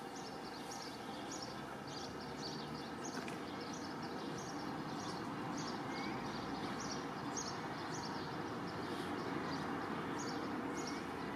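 Distant diesel train approaching, its low rumble growing slowly louder. A bird chirps over and over above it, about two short high calls a second.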